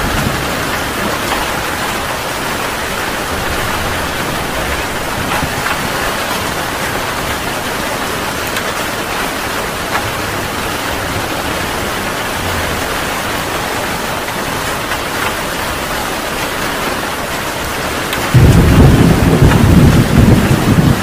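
Heavy rain falling steadily, then near the end a sudden loud, low rumble of thunder breaks in and keeps rolling.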